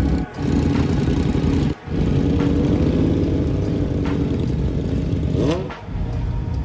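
Car engine running loudly with some revving; its pitch climbs briefly near the end. The sound dips sharply for an instant three times.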